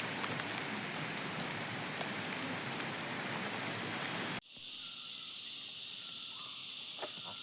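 Steady rushing noise of water, which ends abruptly about four seconds in. It gives way to a quieter steady high-pitched chorus of insects such as crickets.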